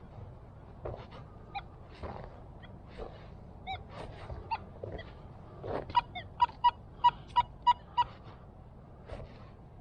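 Metal detector giving short pitched beeps, scattered at first, then a quick run of about eight beeps around six to eight seconds in, over scattered knocks and scuffs.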